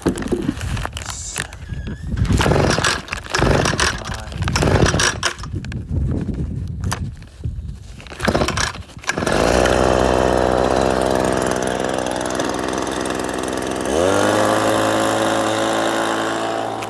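Irregular knocks and clatter, then a motor starts about nine seconds in and runs steadily, its pitch gliding up to a higher steady speed about five seconds later.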